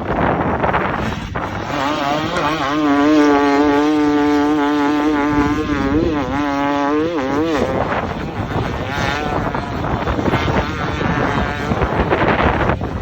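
Dirt bike engine running at high revs, holding a steady pitch for several seconds, wavering up and down, then dropping away about three-quarters of a second before the middle of the clip's end half, with wind rushing across the microphone throughout.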